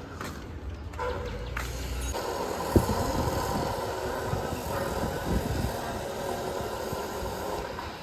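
Road traffic noise heard while riding through the street: a steady haze of vehicles running nearby, with one sharp knock just before three seconds in.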